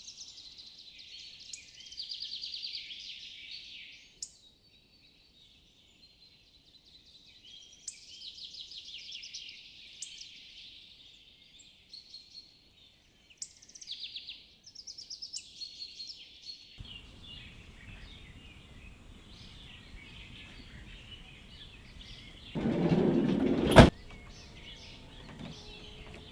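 Small birds singing in the forest, repeated high chirps and trills. About two-thirds of the way through the sound changes to a fuller outdoor background, and near the end a brief louder rush ends in a sharp click.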